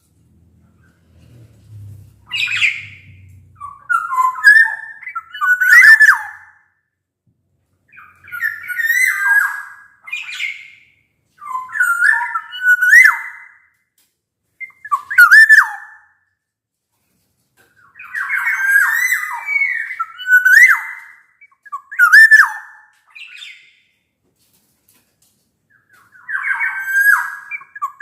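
Black-naped oriole calling in short repeated phrases every two to three seconds, mixing clear fluting whistles with harsh, scratchy notes.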